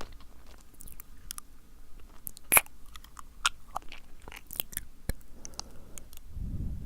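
Close-miked wet mouth sounds: scattered sticky lip smacks and tongue clicks, the loudest about two and a half seconds in. A low rumbling puff of breath comes near the end.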